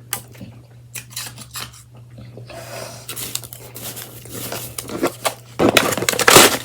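Block of ice being shaved: scratchy scraping and crackling strokes, sparse at first, denser from about two and a half seconds in, and loudest near the end.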